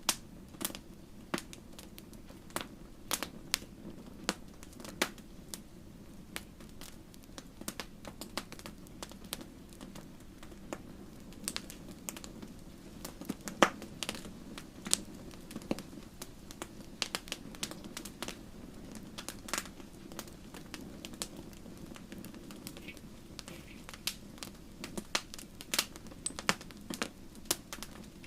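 Wood fire in a fireplace crackling, irregular sharp pops and snaps over a steady low hiss, with one louder pop about halfway through.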